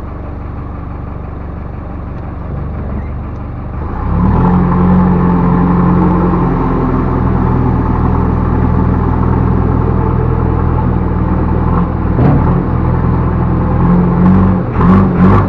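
Backhoe loader's diesel engine running at low revs, then revving up about four seconds in and holding high revs. Near the end the engine note begins to surge in quick pulses.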